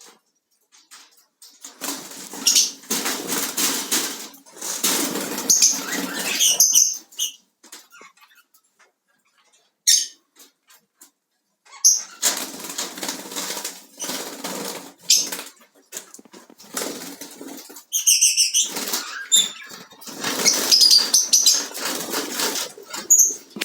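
A parrot flapping its wings in several bursts of a few seconds each, with short high chirps in some of them.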